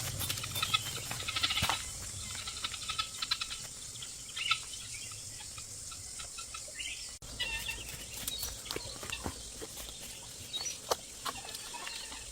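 Small birds chirping over scattered clicks and taps, against steady outdoor background noise.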